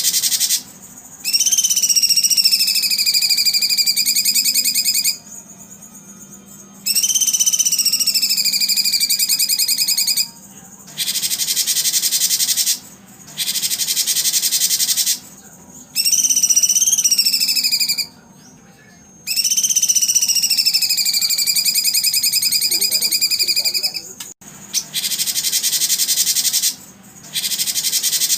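Repeated bursts of dense, high buzzing trills a few seconds long with short pauses between them, and four long whistled calls that slide down in pitch and then hold steady, typical of the insect-and-bird 'therapy' recordings played to contest songbirds.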